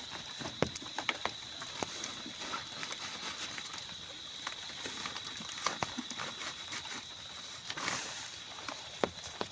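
Rain falling, with drops tapping irregularly and sharply over a steady hiss, and a thin, steady high-pitched whine throughout.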